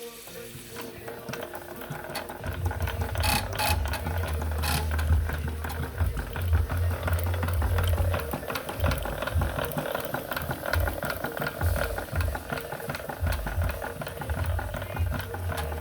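Twin-cylinder live-steam model traction engine running, its motion making a fast, even mechanical clatter over steam hiss, building up in the first couple of seconds, with irregular low thumps underneath.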